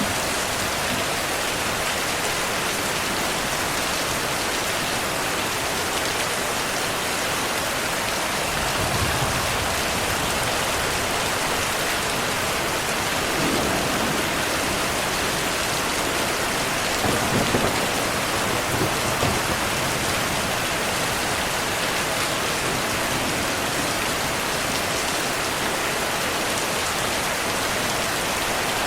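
Heavy, steady rain with low rolls of thunder, a soft one about a third of the way in and a stronger, longer one a little past the middle.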